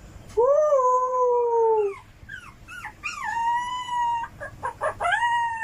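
A dog howling: three long, drawn-out howls with a cluster of short yelps between the first and second.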